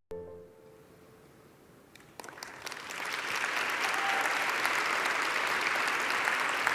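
Audience applauding: a few scattered claps about two seconds in swell quickly into steady applause.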